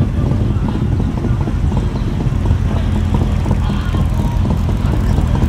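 A car engine running steadily with a low rumble, with music playing alongside.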